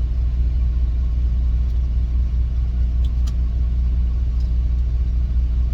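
Semi truck idling, a steady low rumble heard inside the cab, with a couple of faint light ticks about three seconds in.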